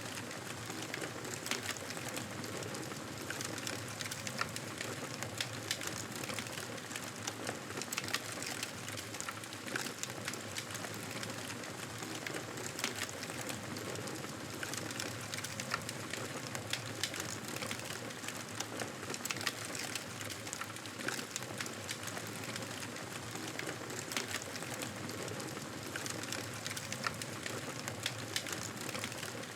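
Fireplace fire crackling: a steady hiss with frequent small pops and snaps scattered throughout.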